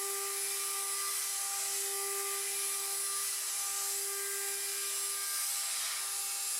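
CNC router spindle near 24,000 RPM with an end mill side-milling a round pocket in aluminium under a light load, giving a steady whine with a hiss of cutting above it. It runs smoothly, sounding just as it should.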